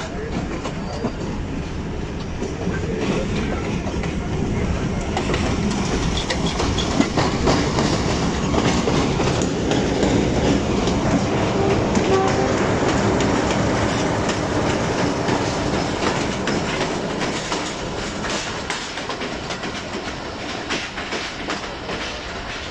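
Two diesel passenger trains running side by side, heard from an open coach window: the clickety-clack of wheels over rail joints and the running of the PHA-20 diesel-electric locomotive alongside. The noise swells to its loudest in the middle as the locomotive draws level, then eases off.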